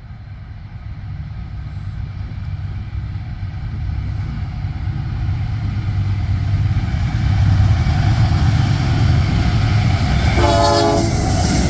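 Train approaching, its low rumble growing steadily louder; about ten seconds in, the locomotive's air horn sounds one short blast.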